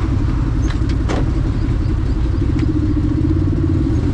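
Side-by-side UTV engine running steadily under way. A couple of short clicks sound over it, about a second in and again past halfway.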